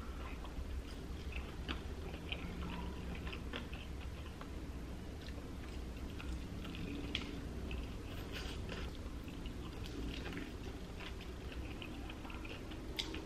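A person biting into and chewing breaded fried chicken, with many short, irregular crunches and mouth clicks.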